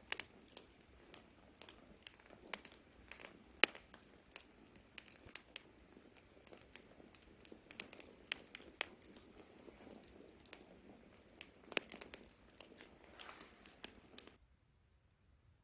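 Campfire crackling: wood burning with irregular sharp pops and snaps over a soft steady hiss. About a second before the end the sound cuts out completely for about a second.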